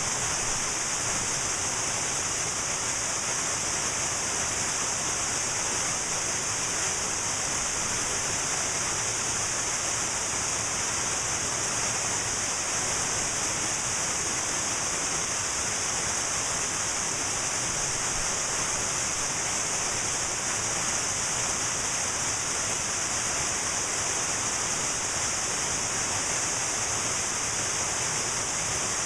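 Cascading mountain waterfall: a steady, unbroken rush of falling water with a bright hiss, unchanging throughout.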